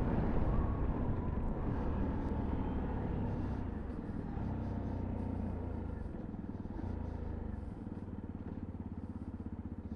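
Sinnis Terrain 125cc single-cylinder motorcycle engine running while riding, its note steady and gradually getting quieter, as when easing off.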